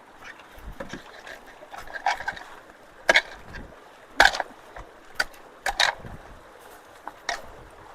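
Irregular knocks and splashes of rocks and gravel being moved about in a shallow, running creek, about one to two a second, over steady water noise.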